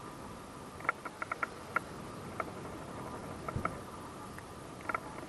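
Short high chirps, singly and in quick runs of two to five, over a steady outdoor hiss.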